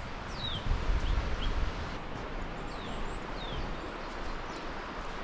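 Small birds chirping, a few short falling notes spread through, over a steady outdoor hiss. Low thumps sound on the microphone about a second in.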